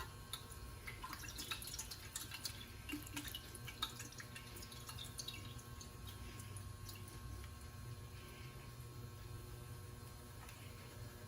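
Old gasoline, heavy with water, dripping into a plastic takeout tray: a run of small drips that thins out about halfway through, over a steady low hum.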